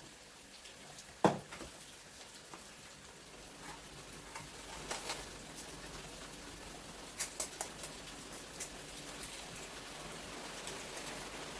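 Kitchen work sounds: a sharp knock about a second in, then scattered light clicks and taps of utensils and dishes being handled, with a short run of clicks past the middle.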